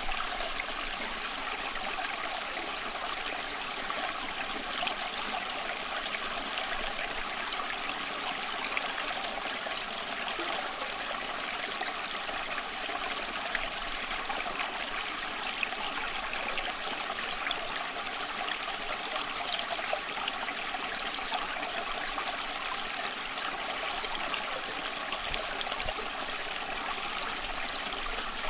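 A small stream running and trickling steadily over rocks, a continuous splashing babble with many small droplet sounds.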